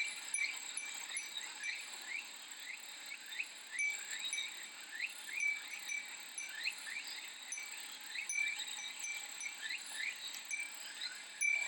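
Cicadas buzzing in a steady high drone, with many short chirping notes repeating quickly over it.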